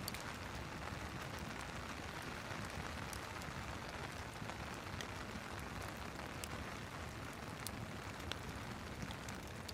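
Steady rain hiss with a wood fire crackling over it in scattered sharp pops.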